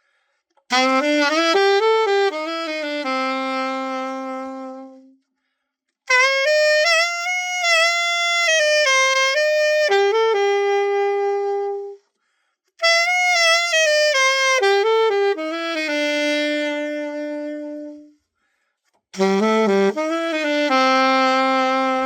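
Selmer Mark VI alto saxophone played after a full overhaul: four short melodic phrases, each ending on a long held note, with brief silences between them.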